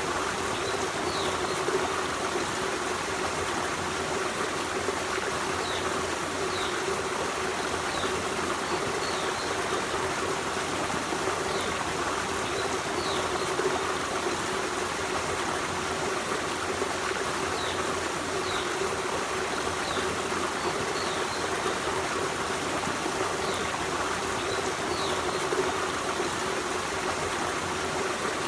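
A forest stream running steadily over rocks, with an even rushing and trickling of water. Faint, short high chirps from a small bird come now and then over the water.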